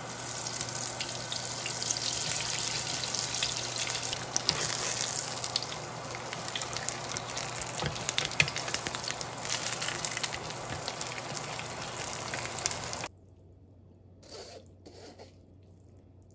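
Kimchi pancakes frying in hot oil in a pan: a steady sizzle full of small crackles, with a few louder pops and knocks as the pancakes are worked with a wooden spatula. The sizzle cuts off suddenly about three-quarters of the way through, leaving a few soft drips and taps of wet noodles tipped from a strainer into a bowl.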